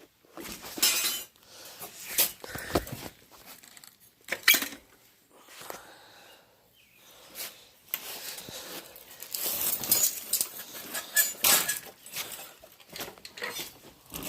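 Clutter being shifted and handled: irregular clinks, knocks and rattles of metal and glass objects, busiest in the second half.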